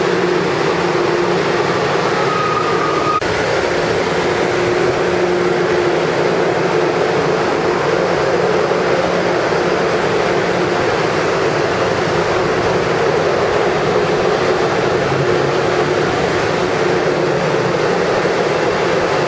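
Long Island Rail Road passenger train passing close along a station platform, a steady rumble of wheels on rails with a constant hum from the cars. A brief higher whine about two to three seconds in ends with a sharp click.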